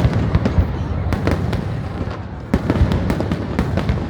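Fireworks display: many sharp bangs in quick succession, easing slightly a little past halfway before a fresh run of strong bangs.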